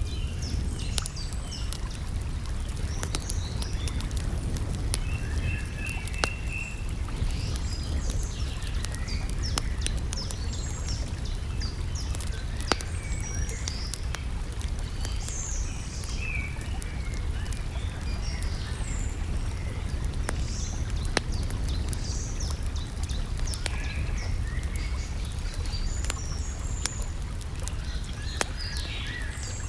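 Small birds chirping on and off over a steady low rush of lake water, with the sharp irregular pops and crackles of a campfire.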